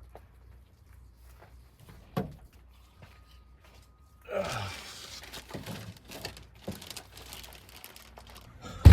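Something being handled with a crinkling, rustling noise and small clicks, starting about halfway through, then a heavy thump at the very end.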